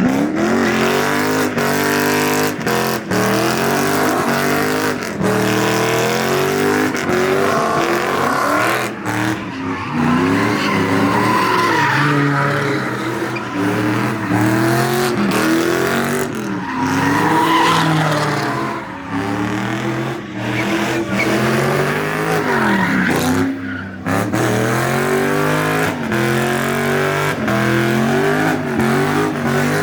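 Car engine revving up and down over and over, rising and falling in pitch every second or two, with tires squealing and skidding as the car slides at a street takeover.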